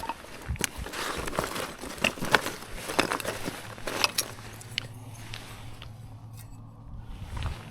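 Irregular cracking and snapping of wood at a campfire, busiest in the first few seconds and thinning out after about five seconds.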